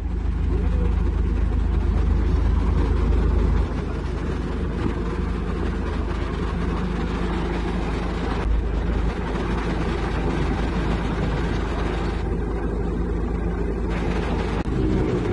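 Heavy diesel engine running steadily with a deep low rumble. It builds over the first second and eases slightly about three and a half seconds in.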